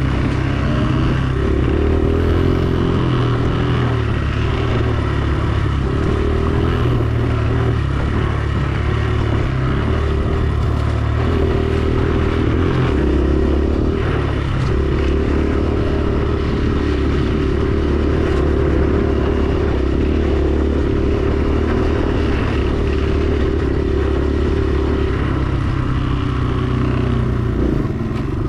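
Dirt bike engine running continuously while being ridden, its pitch stepping up and down several times with throttle changes.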